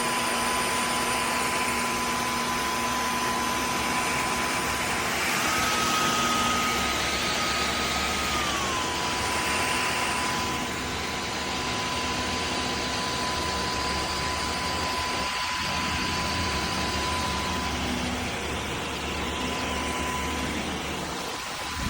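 Dyson Gen5outsize cordless stick vacuum running steadily, a rushing airflow with a high motor whine. The whine steps up in pitch about five seconds in and slides back down about three seconds later.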